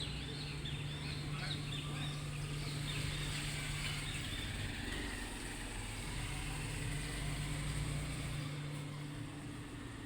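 Small birds chirping in quick repeated notes for the first few seconds, over a steady low mechanical hum like a running motor that continues throughout.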